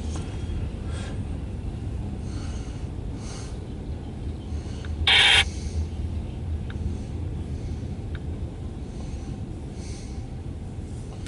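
Freight train rolling past with a steady low rumble. About five seconds in there is one sharp half-second hiss.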